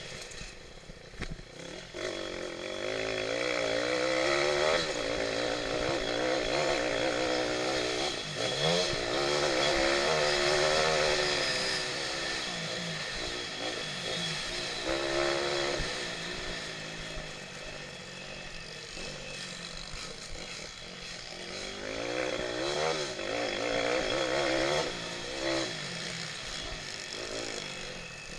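Pit bike engines racing, revving up and down over and over with the pitch rising and falling every second or so, loudest in the first half.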